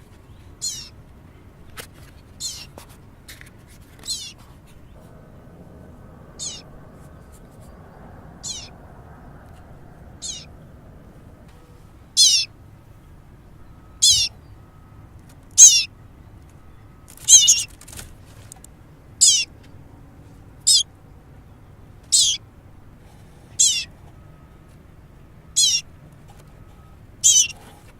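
Baby bird calling: a run of short, high-pitched chirps, each falling in pitch, about one every two seconds and much louder from about twelve seconds in. Repeated calls of a hungry nestling begging for food.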